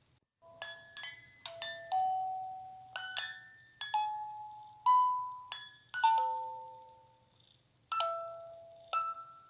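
Slow lullaby melody played on bell-like chime notes, each note struck and left to ring and fade; it starts about half a second in.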